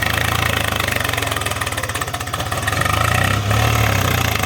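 Swaraj tractor's diesel engine running steadily with a fast, even pulsing beat, its low note swelling briefly about three seconds in.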